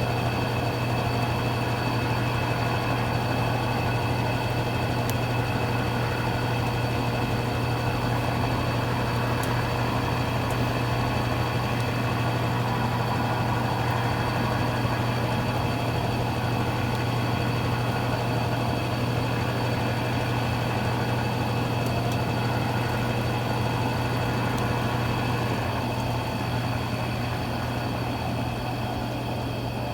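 Consul Cargo 8 kg washing machine running with a steady motor hum, getting slightly quieter near the end.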